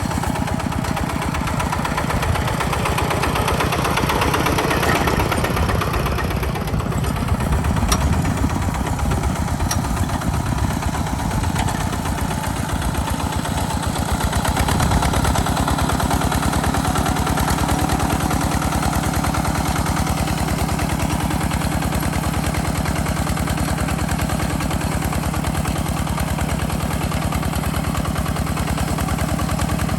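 Tractor engine running steadily under plowing load, with a fast even firing beat; about halfway through its low note shifts and settles into a steadier tone.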